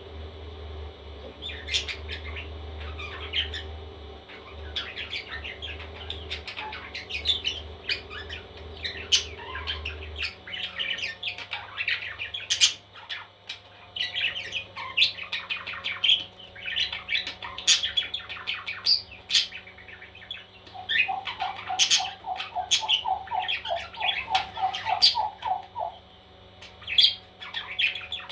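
Baby parrots chirping and squawking, many short overlapping calls, with a run of about a dozen quick repeated calls, two or three a second, about two-thirds of the way through. A low steady hum runs underneath and stops about ten seconds in.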